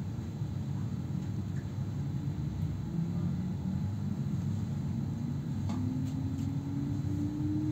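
Electric passenger train heard from inside the carriage as it moves off slowly: a low rumble of the running gear with a thin motor whine that rises steadily in pitch from about three seconds in as the train gathers speed.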